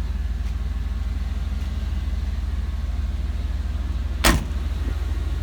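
1992 Chevrolet Silverado's 350 V8 idling steadily with a low, even rumble. A single sharp bang comes about four seconds in.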